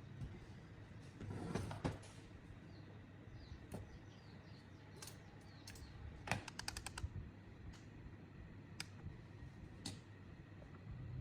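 Scattered light clicks and taps, with a quick run of about six clicks some six and a half seconds in. Faint high chirps sound in the background during the first half.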